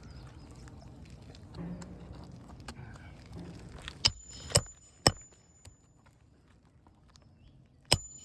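A hammer driving roofing nails into an asphalt shingle: three sharp strikes about half a second apart in the middle, and another near the end, each leaving a brief high metallic ring. Before them comes low shuffling and scraping as the shingle is handled on the roof.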